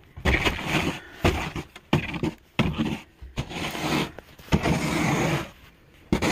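A snow shovel scraping over steps, about six strokes of half a second to a second each, each starting sharply.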